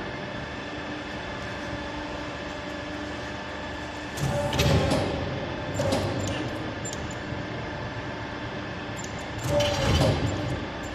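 CNC 4-axis pipe bending machine running with a steady hum. Louder mechanical surges come about four seconds in, again around six seconds and near the end as it feeds, rotates and bends a pipe.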